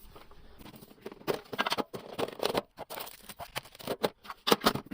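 Irregular crinkling and rustling of packaging as a Pokémon trading card tin is opened and its contents handled, in a string of short uneven crackles.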